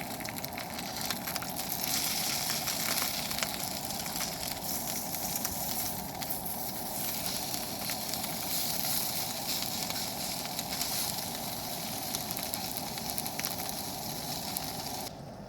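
Wood fire burning in a fire pit, crackling with many small sharp pops over a steady hiss. The hiss drops away just before the end.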